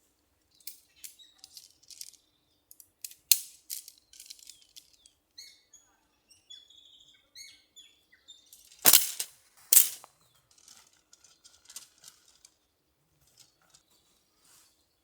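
Irregular sharp clicks and knocks, the two loudest about nine and ten seconds in, with a few short high chirps between them.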